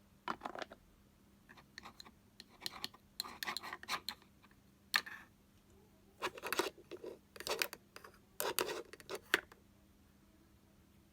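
Close-up crafting sounds from decorating a toy kitchen bag: several bursts of crisp scratching and snipping, with short pauses between them.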